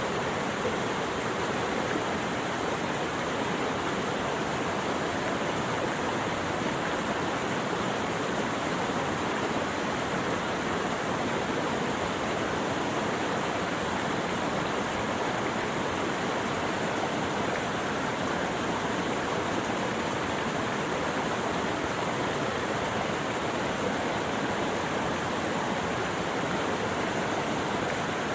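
Flowing water rushing steadily and evenly, as from a stream or waterfall, with no breaks or changes.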